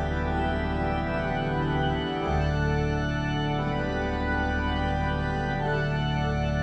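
Organ music: sustained chords held steadily, moving to a new chord about two seconds in.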